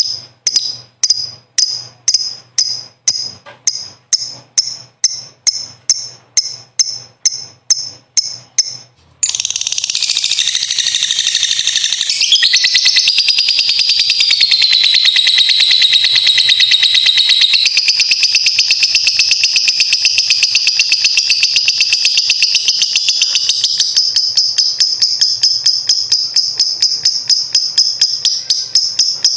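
Lovebird calling: a sharp, high call repeated about twice a second, then from about nine seconds in a long, unbroken rapid chattering trill (the 'ngekek panjang'), which dips lower in pitch for a few seconds in the middle before rising again.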